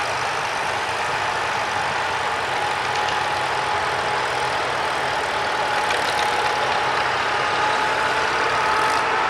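Antique tractor engine running at a steady pitch during a pull, with a thin steady whine on top.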